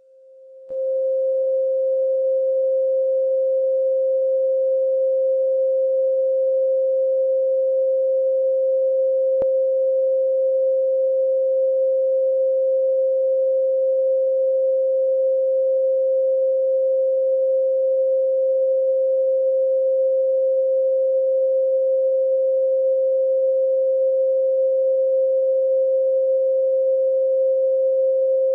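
Steady 528 Hz pure sine tone, swelling in over the first second and then held unchanged.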